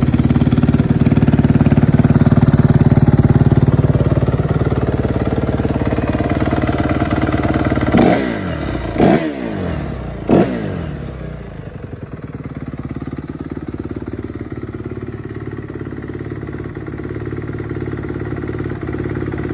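Honda CRF250 dirt bike's single-cylinder four-stroke engine running on its stand: a steady fast idle, then three quick throttle blips about eight, nine and ten seconds in, each dropping straight back, before it settles to a lower, quieter idle.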